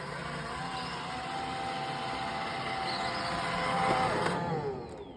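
iRobot Roomba i1 robot vacuum running, a steady motor whine and fan noise, its brushes jammed by a sucked-in paper towel. About four and a half seconds in, the motors spin down with a falling whine.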